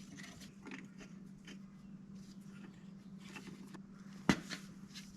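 Faint clinks and taps of hand tools and metal engine parts being handled, with one sharper metallic clank about four seconds in, over a steady low hum.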